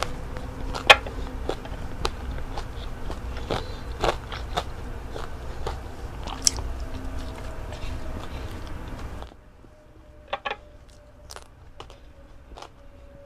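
Close-up chewing of fried salmon and rice: wet mouth clicks and light crunches. It drops much quieter about nine seconds in, leaving a few soft clicks.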